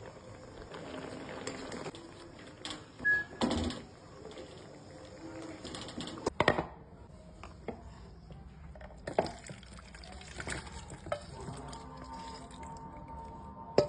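Kitchen cooking sounds: water or broth in a pot, with several sharp knocks of utensils against cookware.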